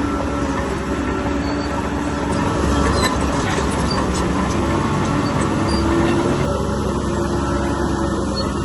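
Bulldozer working: its diesel engine running steadily under load, with the steel tracks clanking and squealing, and a run of metallic clicks and knocks about three seconds in.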